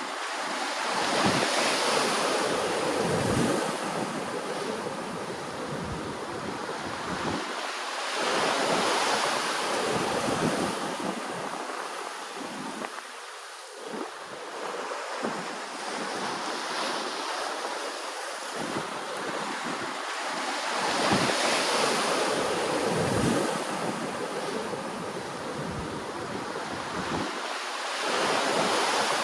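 Ocean waves washing in, a steady rush that swells and falls back every several seconds as each wave comes in.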